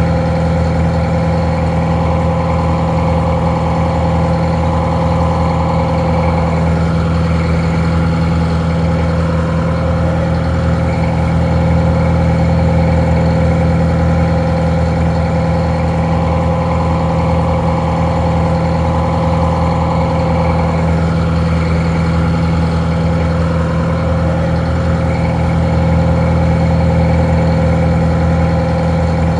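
Detroit Diesel 4-71 two-stroke diesel engine idling steadily, a deep even drone that holds at a constant speed; it drives a winch and sounds somewhat muffled.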